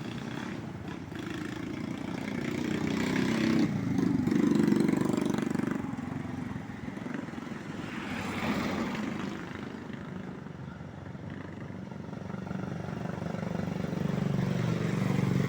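A motor vehicle engine running, its steady low hum growing louder about four seconds in and again near the end.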